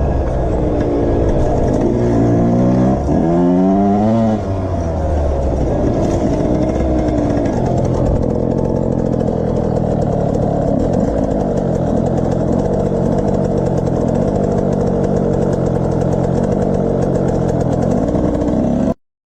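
Motorcycle engine revving up and down several times in the first few seconds, then running steadily at speed. The sound cuts off suddenly near the end.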